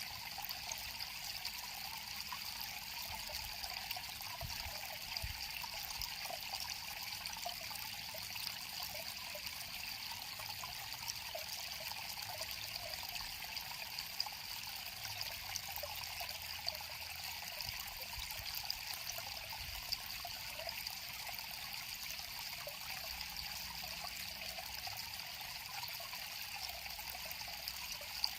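A river flowing steadily, a constant trickling rush of water with no pauses.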